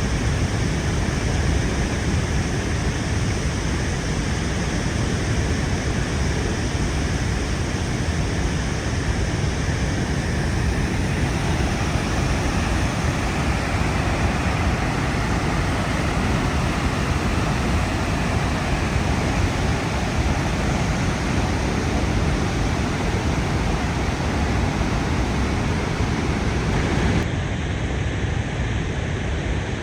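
Steady roar of Niagara Falls, a dense, even rush of falling water heavy in the low end; near the end it turns duller as its hiss drops away.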